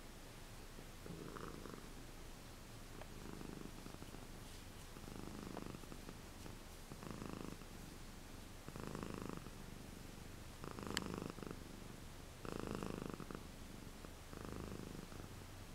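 A cat purring steadily and softly, the purr swelling and easing about every two seconds with its breathing. There is a single small click about eleven seconds in.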